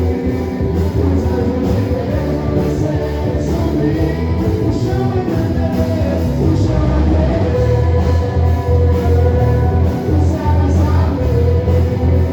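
Live worship band playing loud music with a steady beat.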